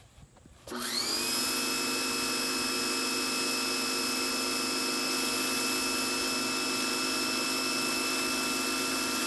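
Pressure washer started up and spraying through a spinning patio cleaner attachment. It cuts in about a second in with a quick rising whine, then runs as a steady whine over a spray hiss.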